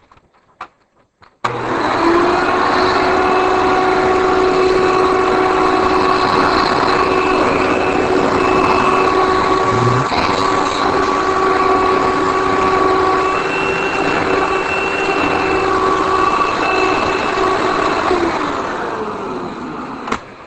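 1990 Hoover Elite upright vacuum cleaner switched on: its motor starts suddenly and runs with a steady whine, then is switched off and winds down with a falling pitch near the end. A single click comes just before the end.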